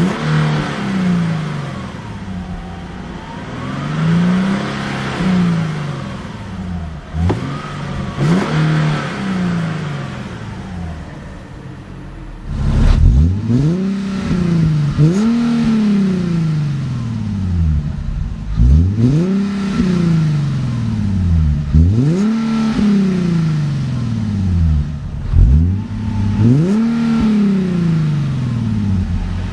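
Nissan 370Z NISMO's 3.7-litre V6 blipped again and again from idle through its exhaust, each rev rising in pitch and falling back. The sound gets louder about twelve seconds in, and from there the revs come about every three seconds.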